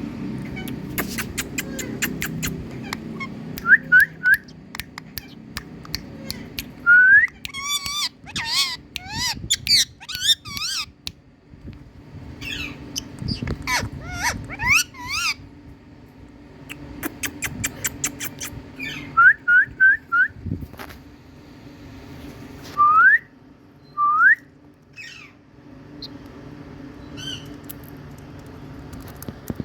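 Indian ringneck parakeet calling: short rising whistles, often in quick runs of three, warbling wavering calls in the middle, and a run of sharp clicks near the start.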